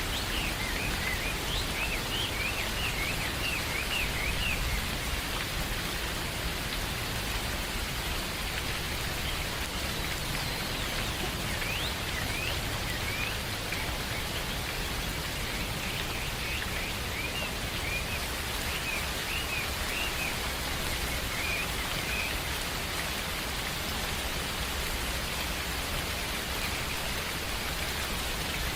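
Steady rain falling, with a bird chirping in quick short notes over it for the first twenty seconds or so, then rain alone.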